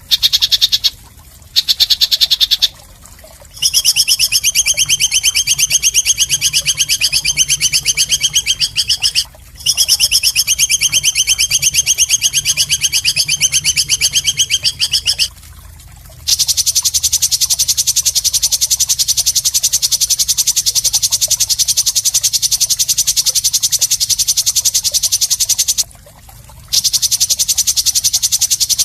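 A bird's harsh, rapid, high-pitched trill from a looped masteran recording, sounding in long stretches broken by short pauses. After the pause about halfway through, it turns into a steadier, higher buzzing trill.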